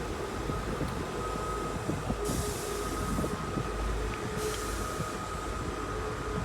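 Class 158 diesel multiple unit running at the platform: a steady engine rumble with a constant hum, broken twice by a burst of air hiss, about two seconds in and again about four and a half seconds in.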